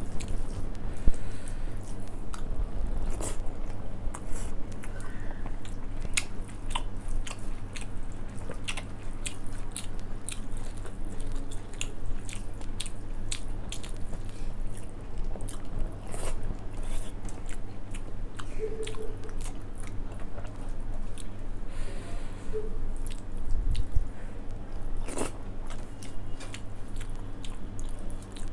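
Close-miked chewing and mouth sounds of a person eating rice and dal by hand, with many small sharp wet clicks, over a steady low hum.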